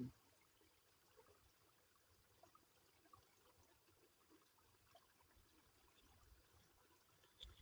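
Faint trickle of a small stream running down a channel, barely above near silence.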